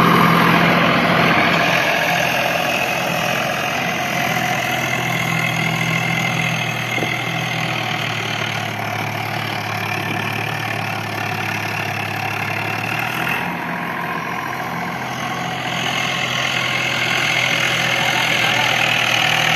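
Swaraj 744 FE tractor's three-cylinder diesel engine running steadily, easing off slightly around the middle and picking up again near the end.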